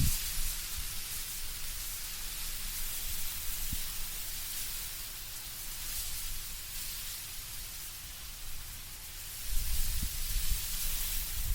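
Wind moving through autumn trees, the leaves rustling in a steady hiss that swells and eases. A low, gusty rumble builds near the end.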